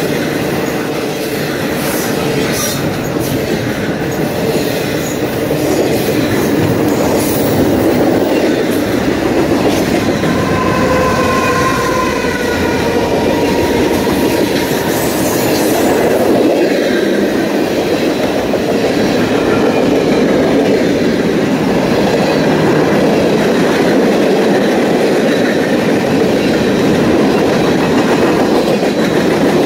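Freight cars of a long mixed freight train rolling past: a steady rolling noise of steel wheels on the rails with clicks and clacks. A brief wheel squeal comes about ten seconds in.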